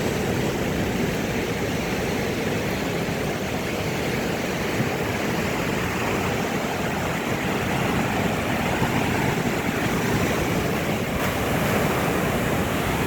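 Steady rushing of Pacific Ocean surf.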